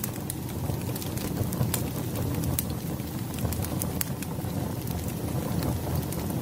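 Firewood burning with an irregular crackle: sharp pops and snaps scattered over a steady low rumble of the flames.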